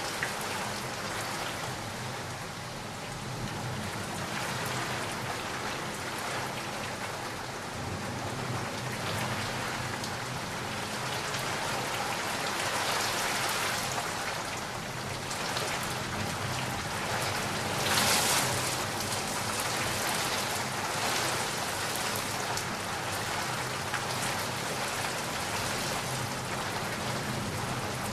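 Steady rain falling and pattering, with a short, sharper surge in the rain's noise about two-thirds of the way through.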